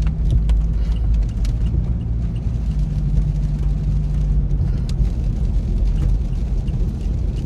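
Car cabin noise while driving: a steady low engine and road rumble, with scattered light ticks over it.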